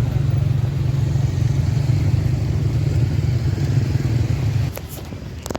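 An engine runs steadily with a low hum, then drops off abruptly near the end. Two sharp clicks follow.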